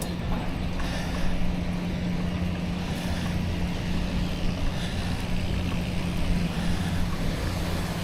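Steady riding noise from a bicycle in motion: wind rushing over a neck-mounted action camera's microphone, with a low steady hum underneath.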